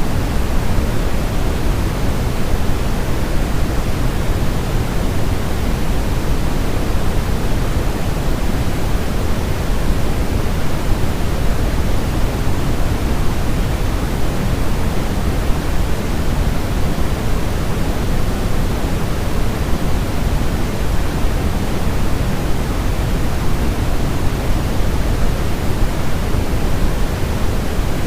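Steady, unbroken synthetic noise for baby sleep: a pink-noise hiss, fuller in the low end than the highs, with no change or break.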